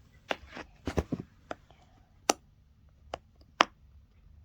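Small plastic fidget toys being handled, giving about nine sharp, irregular clicks and taps, bunched in the first second and more spread out after.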